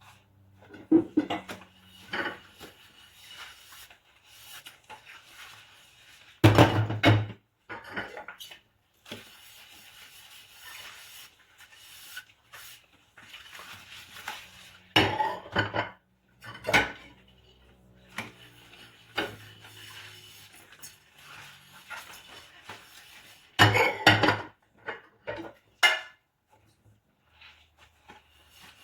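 Dishes and cutlery being washed by hand, clinking and clattering against each other in four bursts. The loudest burst comes about six to seven seconds in, and there is quieter handling between the bursts.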